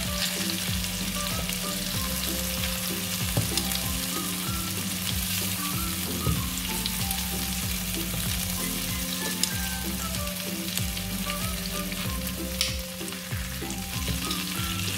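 Spice-marinated chicken drumsticks frying in hot olive oil, a steady sizzle, with a few clicks of metal tongs as the pieces are turned.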